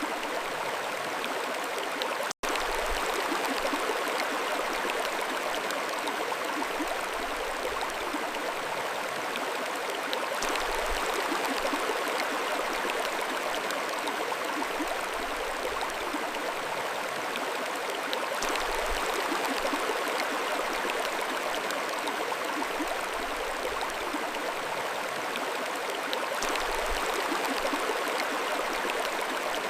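Mountain stream flowing steadily over rocks, an even rushing and gurgling of water. The sound drops out for an instant about two seconds in.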